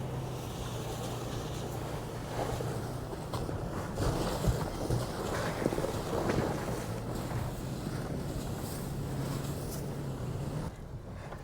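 Toyota Tacoma pickup driving through sloppy, slushy snow: the engine runs steadily under a constant churning hiss of tyres through wet slush, with a few knocks and thumps from the truck about halfway through.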